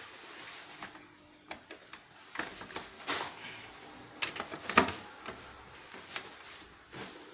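Scattered light clicks and short scrapes of parts, tools and cables being handled on a workbench.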